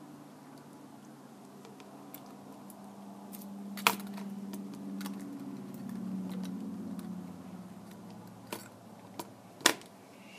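Small tools and parts clicking and tapping as they are handled on a work surface, with a few sharp clicks, the loudest about four seconds in and near the end, over a low steady hum that swells in the middle.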